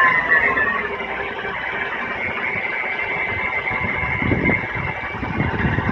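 Mercedes-Benz W211 engine idling with a faint steady high whine, a noise the owner guesses may come from the oil pump. Some low rumbles come in near the end.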